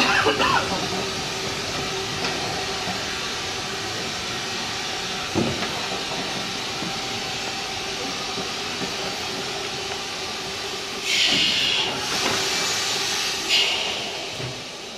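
A 15-inch gauge miniature railway train rolling slowly along a platform, heard from a carriage as a steady running noise with a constant hum. A brief wheel squeal comes at the start and a single knock about five seconds in. Two short bursts of hiss come about eleven and thirteen and a half seconds in, and then the sound fades away.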